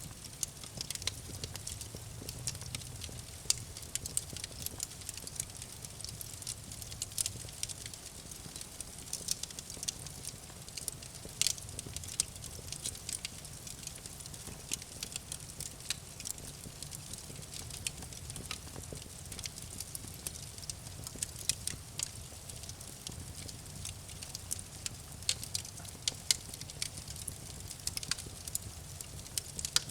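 Campfire burning with a steady stream of irregular sharp crackles and pops over a soft hiss and a low rumble of the flames.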